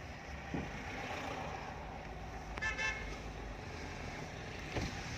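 Steady car engine and road rumble heard from inside a moving car in heavy traffic, with one short vehicle horn toot about two and a half seconds in.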